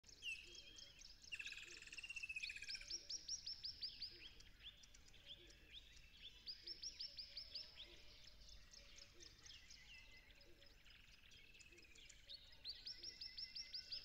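Faint birdsong from several birds, with runs of quick, high, falling chirps repeating several times a second, heard three times, over lower warbling phrases.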